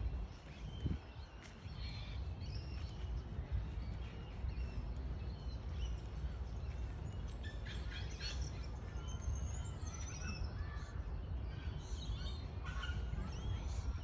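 Several birds chirping and calling in short, quick rising and falling notes, busiest in the second half, over a steady low rumble.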